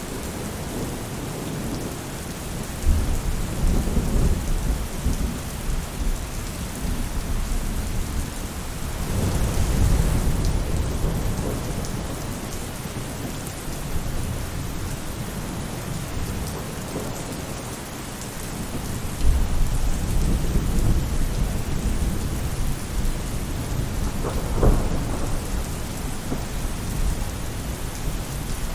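Steady rain falling on a roof, with rolling thunder that rumbles low and swells up several times.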